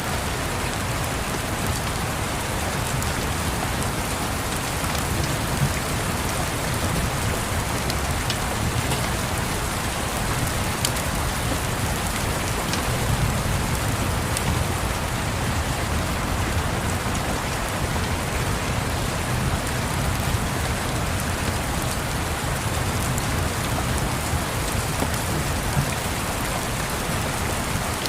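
Steady rain, an even hiss with a low rumble underneath and a few faint sharp ticks scattered through it.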